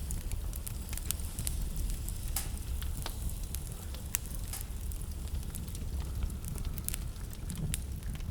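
Wood burning in a fireplace, crackling with frequent irregular sharp pops over a steady low rumble.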